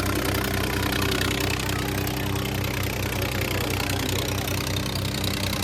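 Tractor's diesel engine running steadily at constant speed, with an even low pulsing beat.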